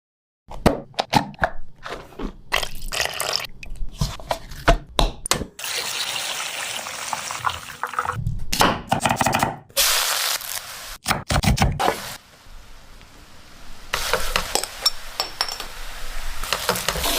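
Kitchen food-preparation sounds in short, abruptly cut snippets: wet, liquid handling sounds with knocks and clicks, and a longer stretch of noisy crackling.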